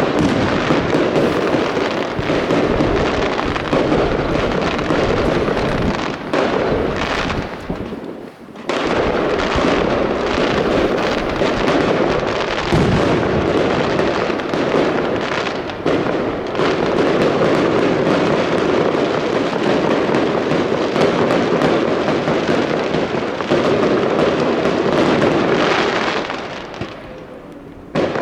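Fireworks display: a dense, continuous barrage of bangs and crackling. It drops off briefly about eight seconds in and eases off near the end.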